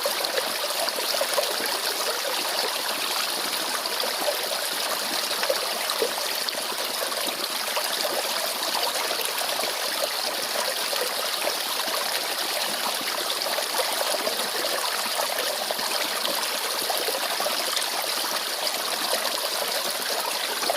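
Mountain valley stream running and trickling steadily, an even, unbroken babble of flowing water.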